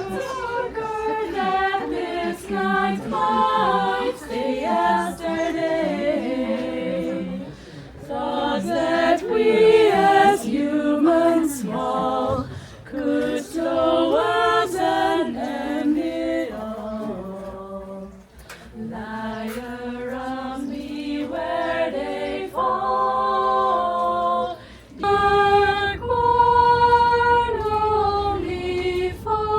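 Youth choir singing a cappella in several-part harmony, phrase after phrase with short breaths between. A low rumble joins under the voices near the end.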